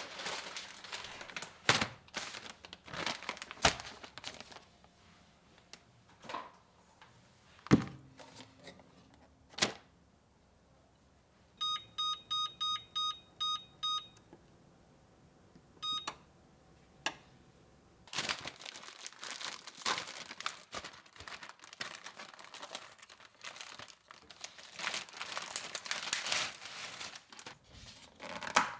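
Plastic or paper packaging crinkling and tearing in irregular bursts. About twelve seconds in comes a quick run of about eight electronic keypad beeps, then a single beep a couple of seconds later, before the crinkling resumes.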